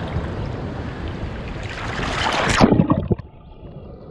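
Sea waves and surf churning, with a deep rumble close to the microphone. About two and a half seconds in comes a loud splash. Just after it the sound drops suddenly and turns muffled.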